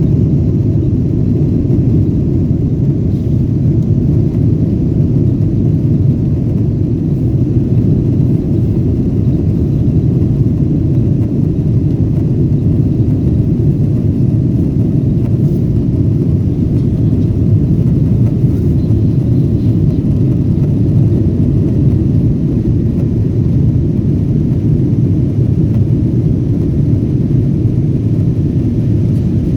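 Boeing 777-200ER airliner during takeoff, heard as a loud, steady low rumble of engines and airflow with no change through the stretch.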